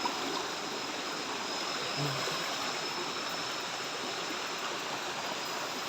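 A stream rushing steadily, with a continuous high insect drone over it.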